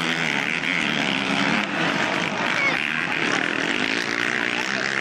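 Motocross motorcycle engines running and revving on the track, rising and falling in pitch.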